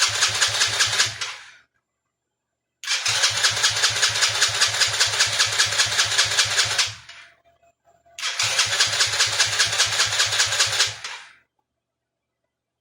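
Chinese 110cc kid's ATV engine being cranked by its electric starter in three separate bursts, the first short, the second about four seconds and the third about three, with a steady pulsing of about five compression strokes a second. It does not catch and run: the engine is not starting, with a fuel or carburetor problem suspected.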